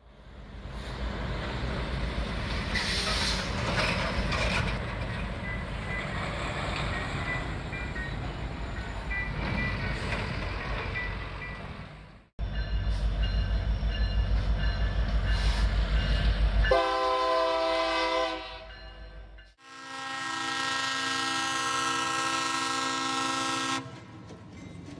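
Trains passing: a rumble, then a louder low rumble with a fast, even wheel clatter. Then two separate long blasts of a train's multi-tone air horn, each a held chord, the second one after a brief cut.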